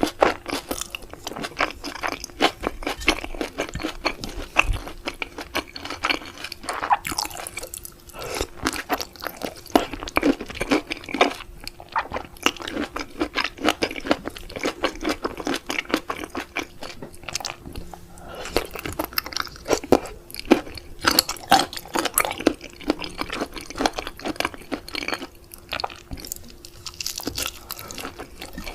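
Close-miked chewing and crunching of raw seafood: live octopus and sea grapes, in dense irregular clicks with short pauses between mouthfuls. A faint steady hum runs underneath.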